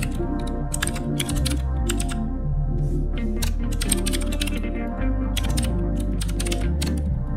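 Computer keyboard typing in quick irregular bursts of keystrokes with short pauses between them, over background music with a heavy bass line.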